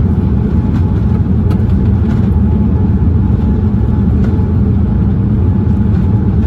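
Steady loud rumble of a Boeing 787-9 Dreamliner's engines and airflow heard from inside the cabin during landing, with a few faint clicks.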